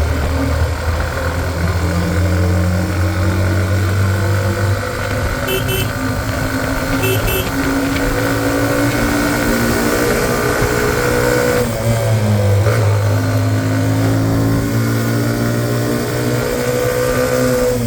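Hero Xtreme 125R's single-cylinder engine running under load on a hill climb, its pitch rising as it pulls and dropping sharply once about twelve seconds in at a gear change. Two brief double beeps sound about five and seven seconds in.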